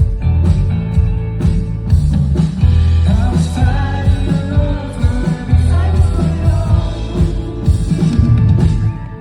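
Live band music with heavy bass and a steady beat, and a wordless wavering lead melody over it in the middle. The music drops briefly near the end.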